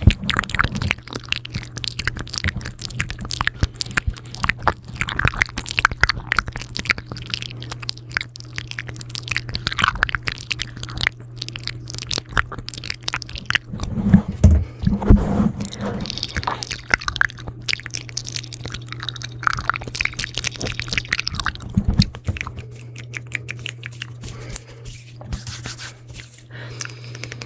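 Close-up ASMR mouth sounds: wet, sticky clicks and smacks of lips and tongue right at the microphone, coming quickly and irregularly, with a few louder, fuller smacks about halfway through.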